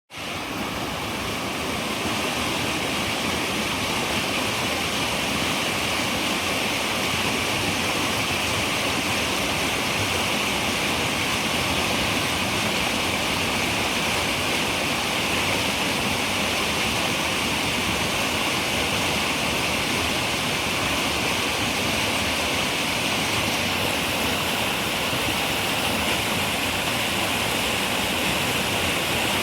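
River water running and splashing in a steady rush, fading in over the first second or two.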